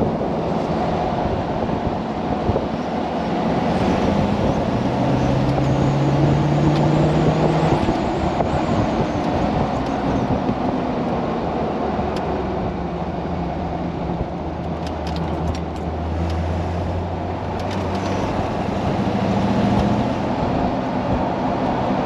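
LS1 V8 engine of a Jeep CJ running steadily while the Jeep cruises, heard with road and wind noise in the open cab. The engine note rises slowly, then drops back about eight seconds in.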